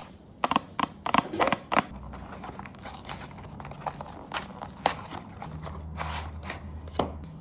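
Handling of a small cosmetic jar and its scooper: irregular small clicks, taps and light crackles close to the microphone, over a low steady hum.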